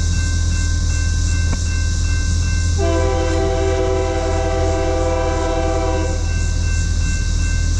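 A locomotive air horn sounds once, a chord of several steady tones held for about three seconds and cut off cleanly, over a steady low rumble.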